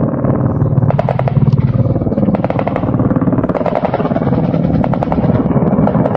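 Mi-8 helicopters flying low overhead: loud, continuous rapid rotor chop over a steady engine sound, swelling in bursts as the aircraft pass.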